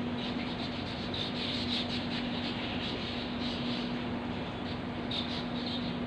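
Many birds chirping and calling, with short high calls coming thick and fast, over a steady low hum.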